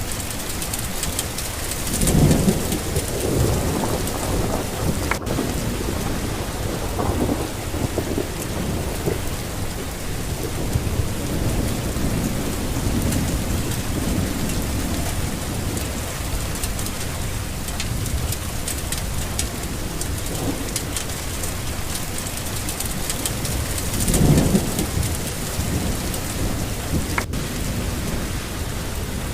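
Steady heavy rain falling, with thunder rumbling under it; two louder low rolls of thunder swell about two seconds in and again near the end.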